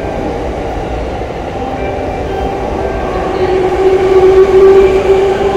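E653 series electric train passing along the platform without stopping, with a steady running rumble and wheel-on-rail noise. A steady whine swells about three seconds in and is loudest for the last couple of seconds.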